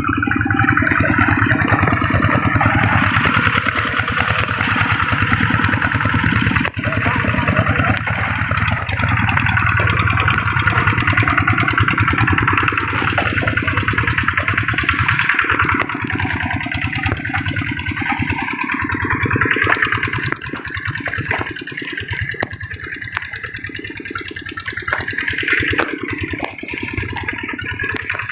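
Paddy tractor's engine running steadily under work as it levels a flooded rice field, easing off a little in the last few seconds.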